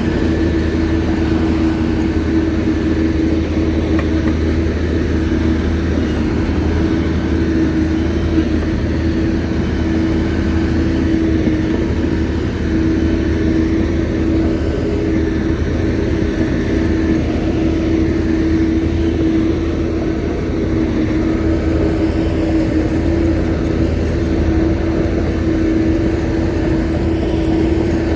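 Shantui bulldozer's diesel engine running steadily, a constant low hum carrying a steady tone.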